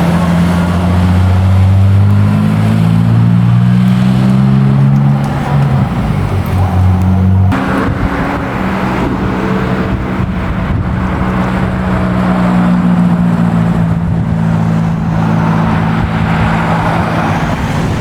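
Classic car engines running: one engine's pitch rises slowly over the first few seconds, then about seven seconds in the sound changes suddenly to another engine holding a fairly steady note.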